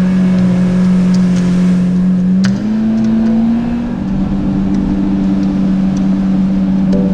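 Jet ski engine running at a steady high speed, its pitch stepping up slightly about two and a half seconds in and again near the end as the throttle is opened a touch. A short sharp tick sounds just before the first step.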